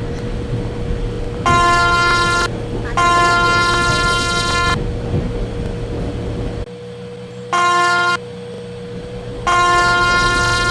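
Train horn sounding four times: a one-second blast, a longer blast of nearly two seconds, a short toot, then a long blast that is still going at the end. Underneath is a steady low rumble, which drops away about two-thirds of the way through.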